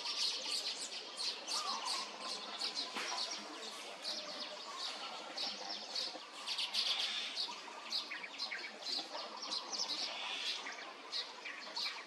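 A chorus of small birds chirping, many short high chirps overlapping in a continuous busy chatter.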